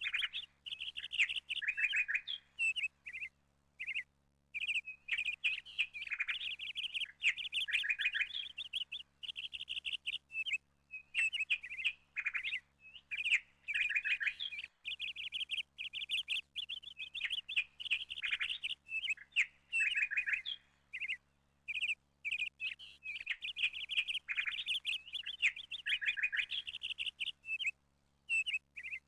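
Small birds chirping and twittering in fast runs of high chirps, with brief pauses between the runs.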